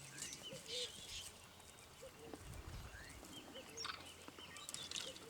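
Faint open-air ambience with low murmured voices and short, high chirping calls.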